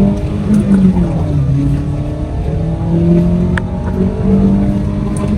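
Skoda Rapid car engine accelerating hard on a 0–100 km/h run, its pitch climbing and dropping back at each gear change.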